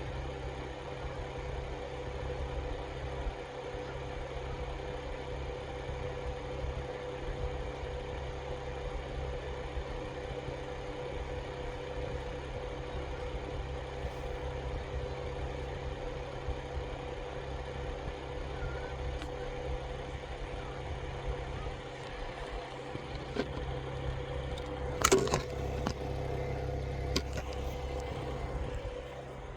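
Steady mechanical hum with a faint constant tone, and a single sharp knock about 25 seconds in.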